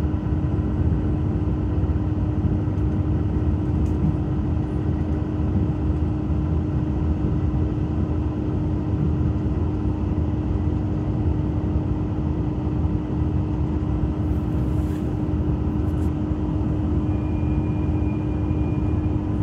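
Cabin noise of a JR Shikoku diesel limited express train rolling slowly into a station: a steady low rumble with a constant engine hum, and a faint high whine near the end.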